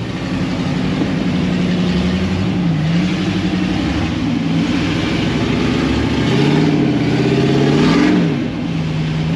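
Off-road 4x4's engine running under load, its revs dipping and climbing again a few times as it works over a trail obstacle.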